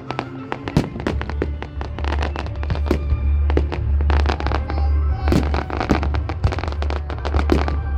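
Fireworks display: rapid, dense crackling bangs and pops from exploding shells, over accompanying music with a steady deep bass that comes in about a second in.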